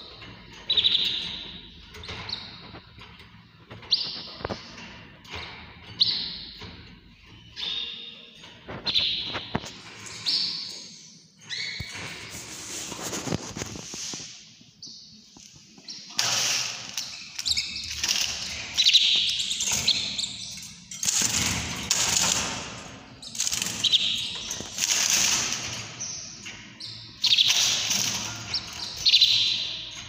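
Small caged songbirds chirping: short high calls about once a second, then from about 16 s in denser, louder bursts of chirping. A few sharp knocks are mixed in.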